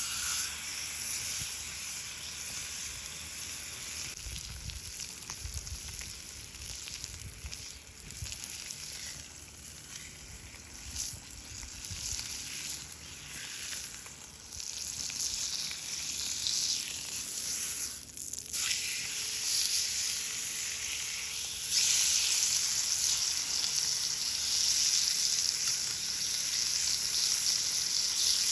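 Food sizzling in a hot pan over a camp fire, a steady hiss that grows louder about two-thirds of the way through.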